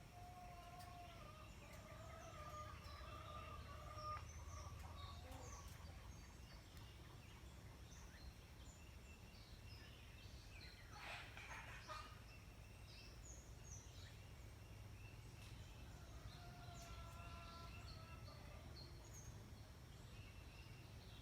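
Faint, drawn-out calls of farm poultry over a low steady background rumble: one stretch of calling in the first few seconds and another about sixteen seconds in. There is a brief rustle near the middle.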